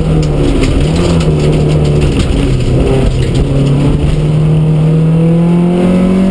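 A 1400cc Vauxhall Astra Mk2 rally car's four-cylinder engine, heard from inside the cabin, pulling hard. Its pitch dips briefly near the start, holds, then climbs steadily over the last couple of seconds as the car accelerates. Scattered sharp clicks and rattles sound during the first half.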